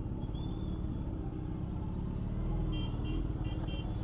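Steady rumble of city traffic and a running motor vehicle. A horn sounds in several short toots near the end.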